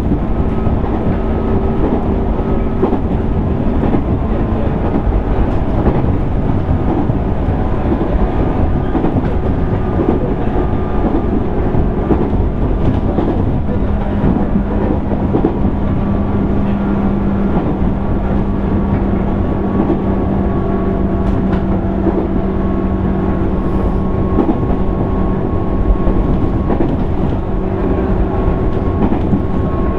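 Running sound heard inside a JR 205 series 600 subseries electric train's motor car: a steady rumble with a continuous motor and gear hum, which drops a little in pitch about halfway through.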